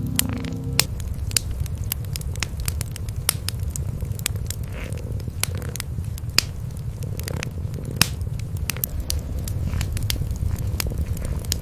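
Wood fire crackling, with frequent sharp pops at irregular intervals, over a steady low cat purr.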